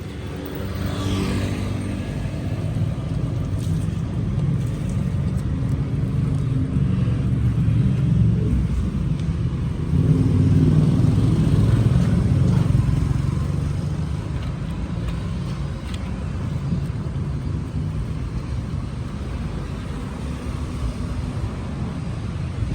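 A car engine running steadily, a low rumble that gets louder about ten seconds in.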